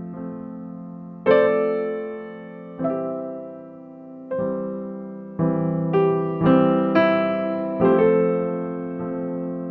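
Piano music, slow and gentle: chords struck one after another, about every second, each left to ring and fade.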